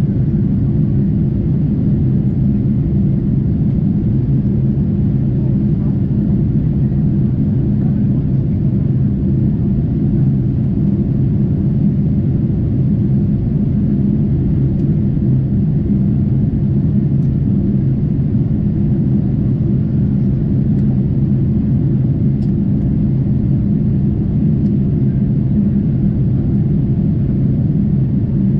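Steady low cabin rumble of a Boeing 747-8 in flight: engine and airflow noise heard from inside the passenger cabin, even and unchanging.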